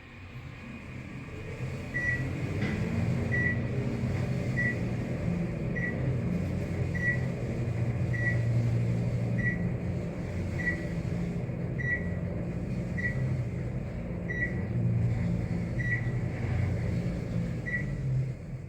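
A 1986 Dover traction elevator running: a steady low hum and rumble, with a short high beep repeating about every second and a bit, a dozen or so times, before the hum drops away near the end.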